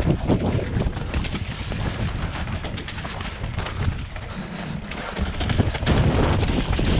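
Wind buffeting the microphone, a steady heavy rumble, with many small clicks and rattles running through it.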